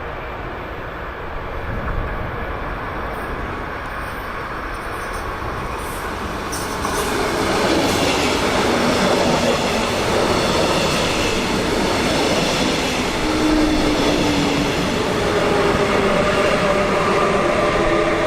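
A train running on the track, growing louder about seven seconds in, with a few steady whining tones over the rumble of the wheels.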